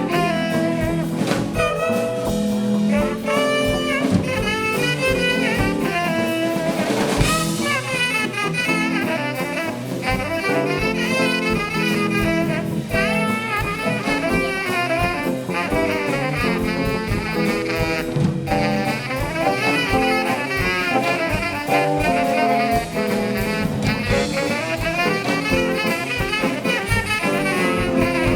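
Live band playing jazzy music, with saxophone and other horns over a drum kit keeping a steady beat.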